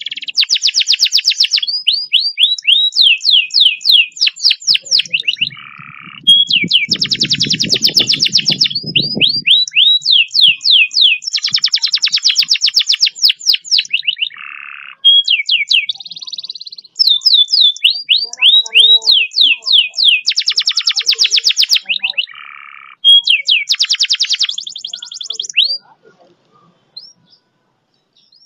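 Domestic canary singing a long run of fast rolls and trills: rapid strings of repeated chirping notes, some rising and some falling, in phrases broken by brief pauses. The song stops about 26 seconds in. A faint low rumble lies under it from about seven to nine seconds in.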